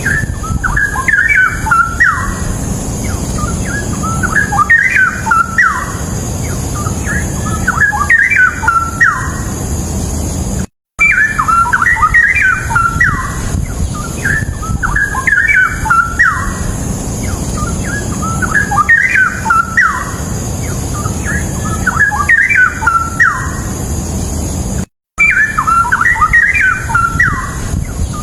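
A bulbul singing loud, bubbly warbled phrases over and over, one every second or two, against a steady hiss and hum. The sound cuts out completely twice, briefly.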